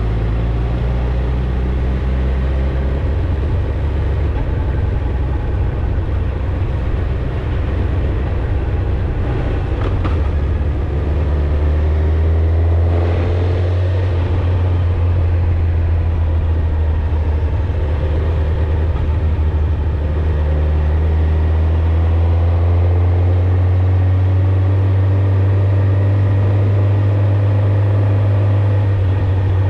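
Suzuki GSX-R1000 inline-four engine and exhaust under way at a steady pace, the engine note rising a step about ten seconds in and again a little past twenty seconds in.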